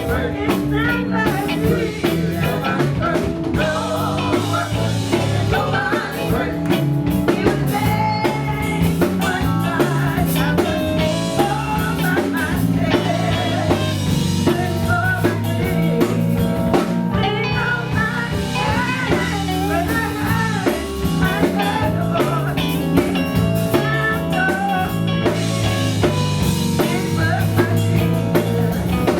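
Live band music with singing over electric guitar, bass and drums, playing continuously in a blues-tinged style.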